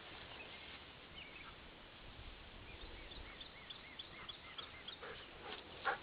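A bird calling faintly, a quick run of short, arched chirps about three a second, over outdoor background noise. A brief sharp rustle or knock comes just before the end.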